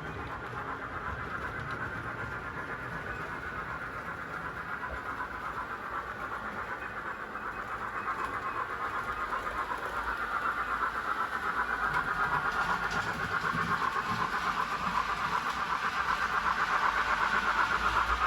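Model train running on the layout track, a steady rushing, clattering sound that grows gradually louder through the second half as the train approaches.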